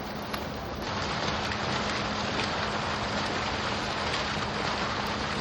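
Water fountain splashing steadily, a continuous rain-like rush of falling water that grows louder about a second in.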